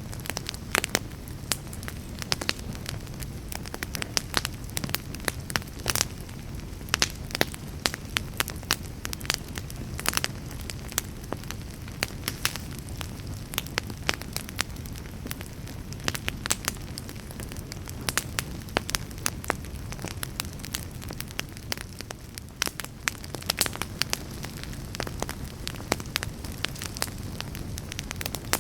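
Wood fire burning in a fireplace: a steady low rush of flame under frequent, irregular sharp crackles and pops from the burning logs.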